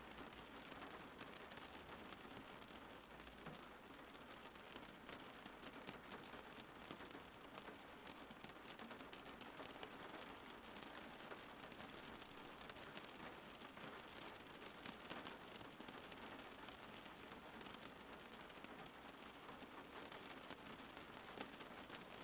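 Rain falling steadily: a faint, even hiss of many small drops pattering on surfaces.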